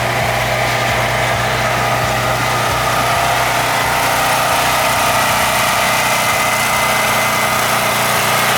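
An engine running steadily at idle, an even hum that does not change.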